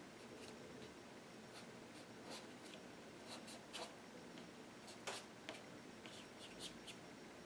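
Paintbrush dabbing and stroking acrylic paint on canvas: faint, irregular scratchy taps, the loudest about five seconds in.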